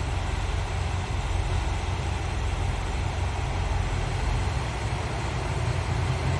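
KiHa 183 series diesel railcar's engines running steadily with a low-pitched hum; about two-thirds of the way through, the lowest note fades and a slightly higher one strengthens.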